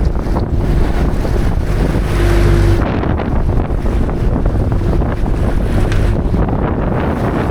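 A boat running under way, its motor humming under heavy wind buffeting the microphone and water rushing past the hull.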